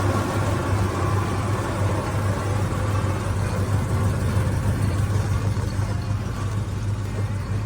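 Oldsmobile Rocket 350 V8 engine of a 1972 Custom Cruiser wagon running steadily with a low, even engine note. The owner calls the engine tired.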